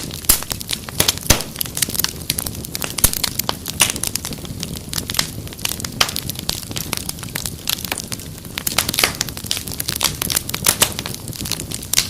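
Wood fire crackling: many sharp, irregular pops and snaps over a low steady rush of the flames.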